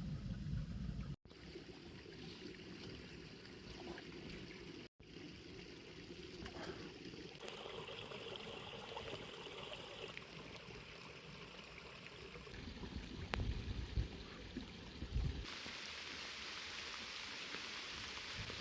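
Rain and trickling water, an even hiss that changes character abruptly several times, cutting out completely for an instant twice early on.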